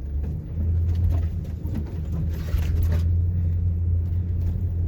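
Four-wheel-drive pickup truck's engine running steadily as the truck drives off-road, a continuous low drone.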